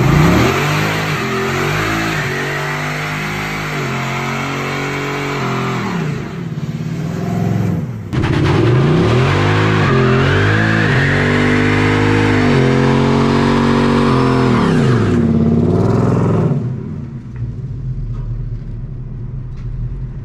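Ford Mustang V8 revving hard during a burnout, its rear tyre spinning in smoke. The revs rise and fall over and over, break off about eight seconds in, pick up again, and fall away near the end.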